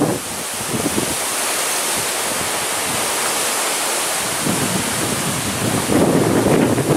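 Strong gusty wind rushing steadily, with a louder gust buffeting the microphone from about six seconds in.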